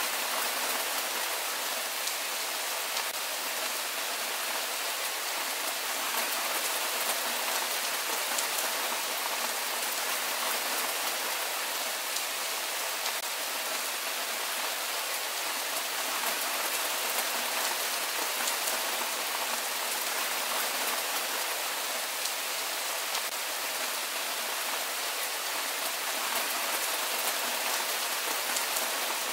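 Steady rain falling, an even hiss with the fine patter of individual drops and hardly any low rumble.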